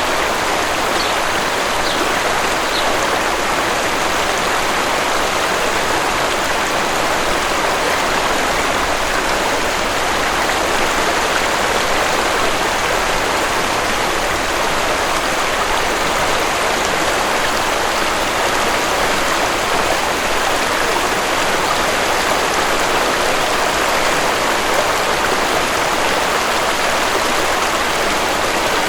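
Waterfall: a steady rush of falling water. A few faint, short, high bird chirps in the first few seconds.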